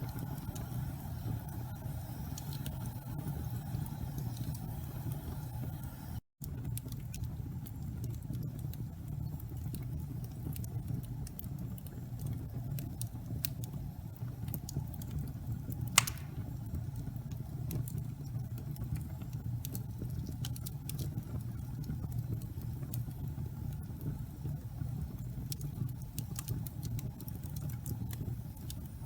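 Wood fire burning in a fireplace: a steady low rumble of flames with sparse small crackles and one sharp, loud pop about sixteen seconds in. The sound cuts out for a split second about six seconds in.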